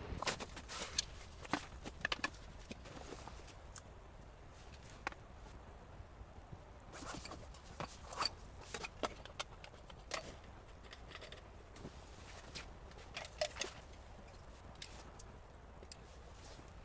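Scattered short clicks, scrapes and rustles of gear being handled, coming in small clusters, with a tent or bag zipper likely among them.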